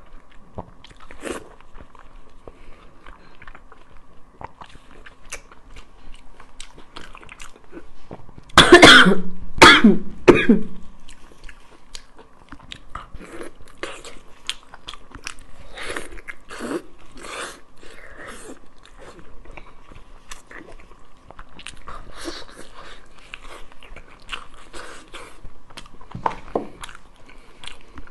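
Close-miked wet chewing and biting of sticky braised pork knuckle, a run of small smacking and clicking mouth sounds. About eight and a half seconds in comes a loud burst of two or three coughs.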